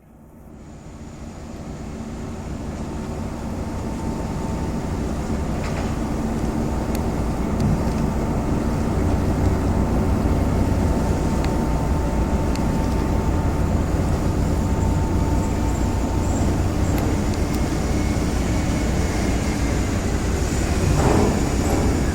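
Car ferry's diesel engines running with a steady low rumble, building up over the first several seconds as the ship leaves port, then holding steady.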